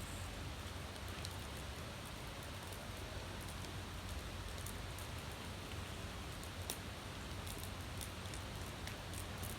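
Wood fire crackling: a steady hiss with scattered sharp pops, which come more often in the second half.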